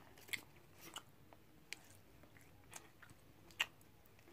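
Faint mouth sounds of a person chewing a chewy sour apple sweet: a few soft, irregularly spaced wet smacks and clicks.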